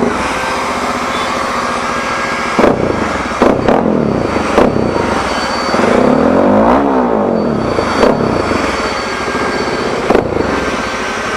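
Bajaj Dominar 400's single-cylinder engine idling through an aftermarket Akrapovic full-system exhaust with a bend pipe and no catalytic converter, blipped sharply several times, with one longer rev that rises and falls back about six to seven seconds in.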